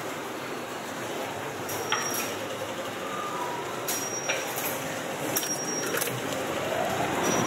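Railway station platform noise: a steady rumble with a few sharp metallic clicks. Near the end a train's electric whine rises in pitch and grows louder as it picks up speed.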